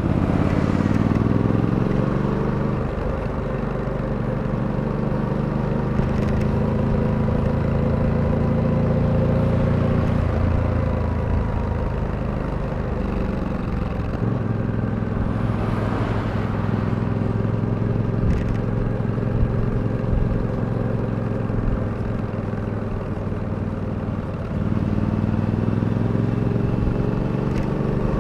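Suzuki V-Strom 800DE's parallel-twin engine running while riding. It climbs in pitch as it accelerates at the start, holds steady, eases off around the middle, and picks up again with a jump in level near the end.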